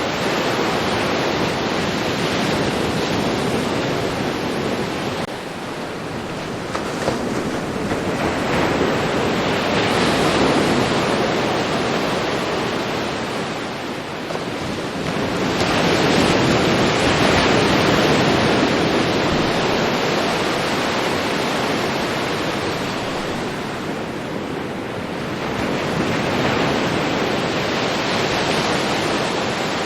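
Ocean surf: waves breaking and washing up a beach, the rush swelling and fading about every eight to ten seconds.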